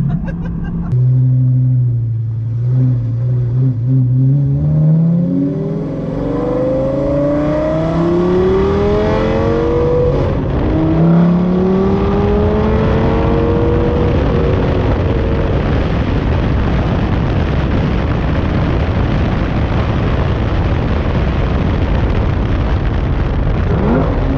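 Lamborghini Gallardo V10 with an aftermarket exhaust accelerating hard from low revs. The engine note climbs and drops back at each quick paddle upshift, a few times in a row, then settles into a steady drone of engine, road and wind noise for the last ten seconds or so.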